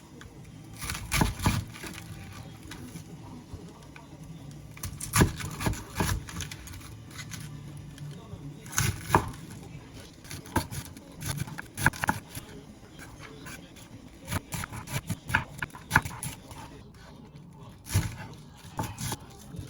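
Irregular knocks and clinks of dishes and utensils being handled, with a low steady hum underneath.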